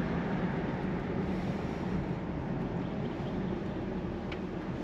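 Steady low rumble of a car's road and engine noise inside the cabin while driving.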